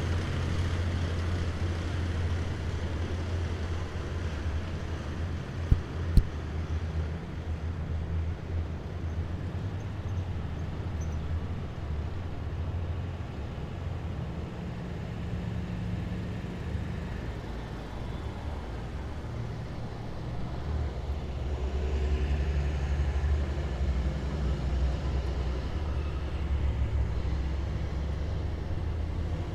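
Heavy military vehicles' diesel engines running with a steady low rumble. There are two sharp clicks about six seconds in, and the engines grow louder from about two-thirds of the way through.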